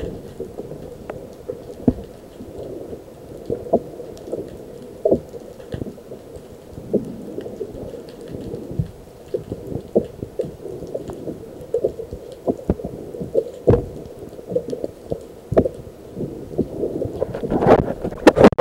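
Muffled water sloshing against a kayak, broken by irregular sharp knocks and thumps at uneven intervals.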